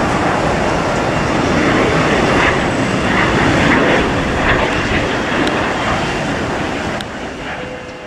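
Engine noise of a passing fixed-wing airliner, a loud, steady rushing roar that fades over the last couple of seconds.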